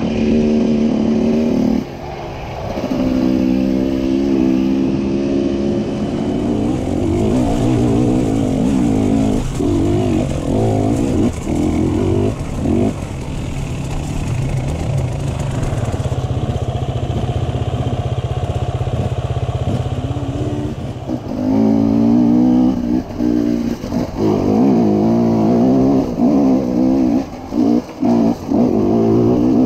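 Enduro dirt bike engine heard from on board while it is ridden over a rough forest trail, its pitch rising and falling with the throttle. The sound dips briefly again and again where the throttle is shut off, most often in the last third.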